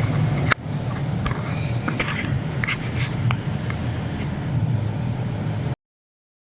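Hand tools clicking and clinking against metal, a handful of sharp knocks over about four seconds, while the water pump bolts come off an LS V8. A steady low hum runs behind the clicks, and the sound cuts off abruptly near the end.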